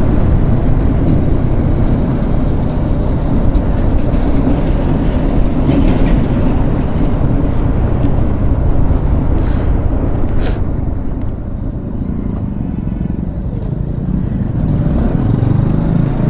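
Yamaha R15 V4 motorcycle riding steadily at highway speed: steady engine and road noise under wind rushing over the rider's microphone.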